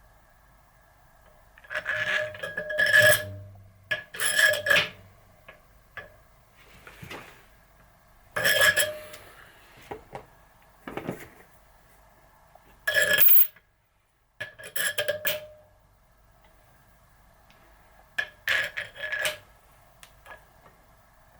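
Small steel press parts (spacers and slugs) clinking and rattling against each other and the bench as they are handled, in about six irregular bursts, over a faint steady hum.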